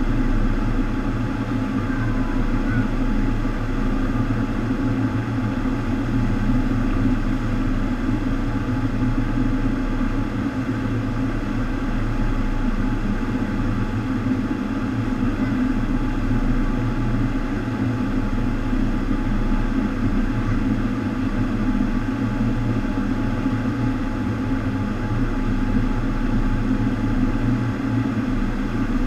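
Steady rushing roar of water pumped over a FlowRider sheet-wave machine.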